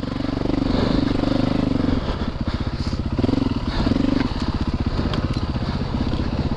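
Single-cylinder four-stroke dirt bike engine running, its pitch rising and falling as the throttle is opened and closed.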